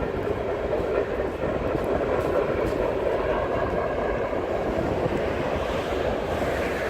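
Freight train rolling past with a steady rumble of wheels on the rails.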